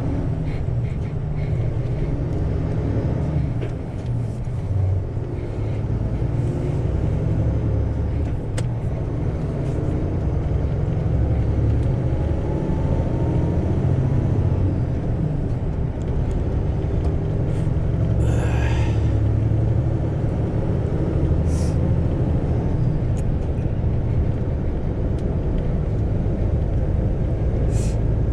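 Isuzu GIGA heavy truck's diesel engine running under way, a steady low rumble whose pitch slowly rises and falls. About two-thirds of the way through comes a burst of hiss lasting about a second, with two shorter hisses later.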